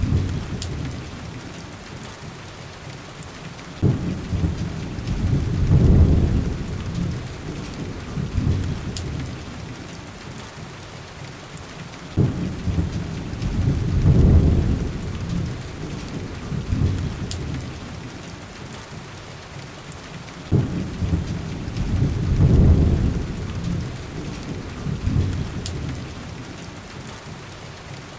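Heavy rain falling steadily, with three rolls of thunder about eight seconds apart. Each low rumble starts abruptly, swells for a couple of seconds and slowly fades. A few faint crackles sound now and then.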